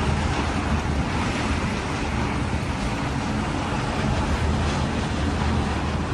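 Typhoon wind blowing hard, a steady rushing noise with gusts buffeting the microphone in a low rumble.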